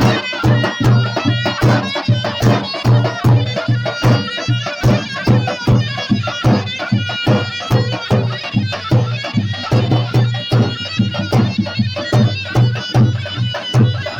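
Live traditional folk dance music: a loud reedy wind instrument plays a melody over a steady drum beat of about two strokes a second.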